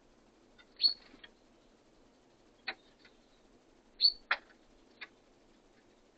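Small birds calling: two short, high calls that slide downward, about three seconds apart, with a few sharp ticks or taps between them.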